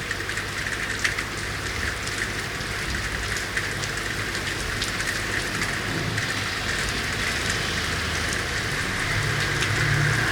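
Steady rain falling on city surfaces, with many separate drops and drips striking close by. A low rumble builds near the end.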